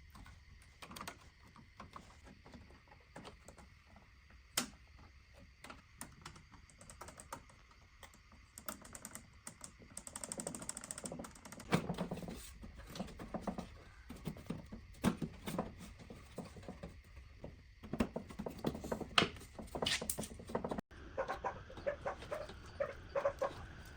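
Irregular light clicks and taps of small hard parts being handled and fitted, sparse at first and getting busier about halfway through.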